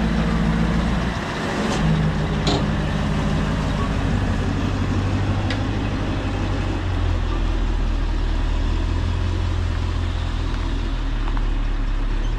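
Heavy diesel engine running steadily, its low note shifting about seven seconds in.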